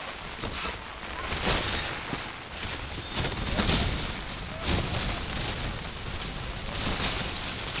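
Outdoor football-pitch ambience dominated by wind buffeting the microphone: a rough, uneven rumble that surges in several louder gusts.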